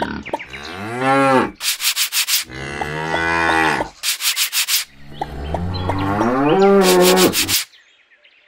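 Cattle mooing: three long, drawn-out moos, each bending in pitch. Short runs of quick rasping, rubbing strokes come between them.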